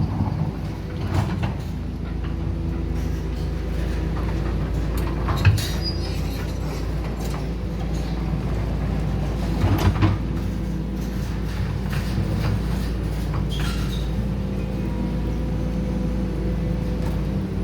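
Heavy construction machine's diesel engine running steadily, with a few sharp metallic clanks and knocks from the working machinery, the loudest about 5 and 10 seconds in.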